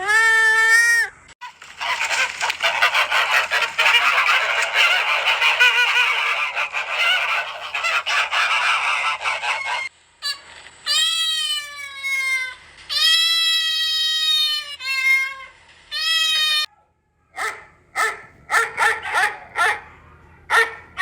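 A run of animal calls: a short pitched call, then about eight seconds of many overlapping calls, then a series of long pitched calls, and near the end short, quick calls.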